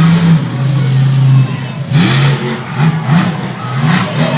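Monster truck engine running hard, holding a steady note and then blipped in a quick series of short revs, each rising sharply in pitch.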